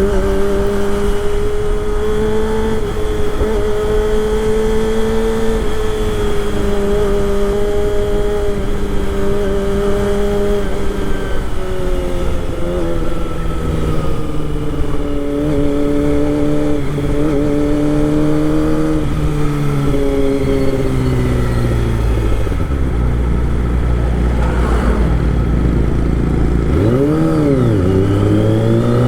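Kawasaki Ninja ZX25R's 249 cc inline-four engine running while riding: steady cruising, then the pitch falls as the bike slows to near idle, with a quick rev blip near the end before it pulls away with rising revs.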